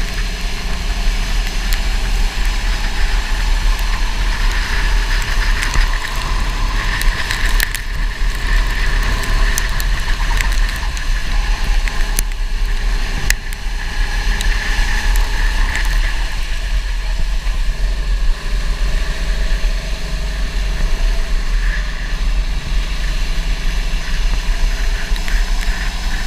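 Go-kart engine running continuously, its pitch rising and falling as the kart speeds up and slows around the track, over a heavy low rumble, with a few sharp clicks.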